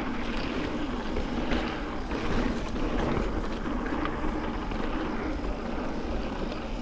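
Wind rushing over the microphone and mountain bike tyres rolling fast over a dirt trail, with a low rumble and many small clicks and rattles from the bike.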